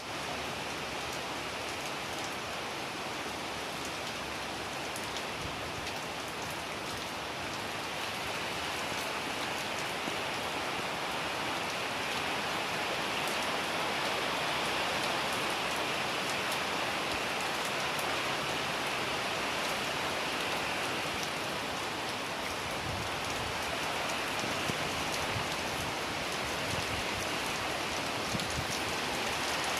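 Steady rain falling, an even hiss with faint drop ticks that grows slightly louder after several seconds.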